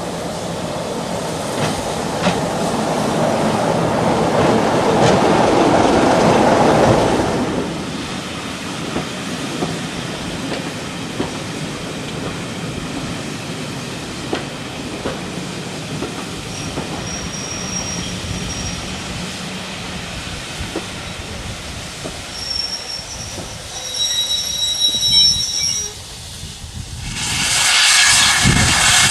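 A heritage train running past on jointed track: a rumble that builds and peaks about seven seconds in, then wheels clicking over rail joints, with thin, high-pitched wheel squeal a few seconds before the end. Near the end a much louder engine sound swells in suddenly.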